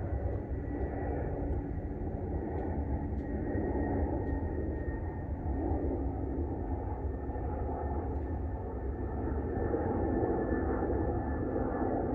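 A steady low rumble from a distant engine, with a faint high whine that slowly falls in pitch and a slight swell near the end.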